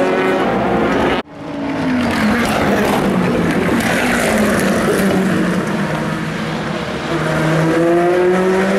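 Endurance race cars passing at speed: engine notes fall in pitch as a car goes by. The sound cuts out for an instant about a second in, and near the end another car's engine note rises as it accelerates.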